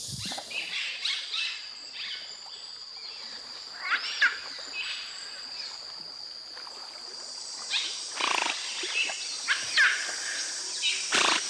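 Giant river otters calling: short high calls that glide up and down in pitch, several of them through the clip and loudest about four seconds in and again near the end. A steady high insect drone runs underneath.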